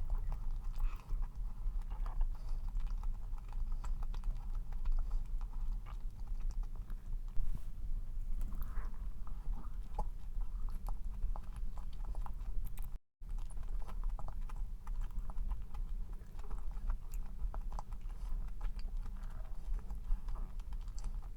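Close-up chewing and biting of a dense cream cheese cup cookie, with many small irregular clicks and taps.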